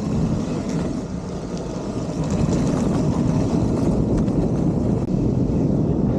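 Vehicle running with a steady low rumble that grows louder about two seconds in, as it moves off.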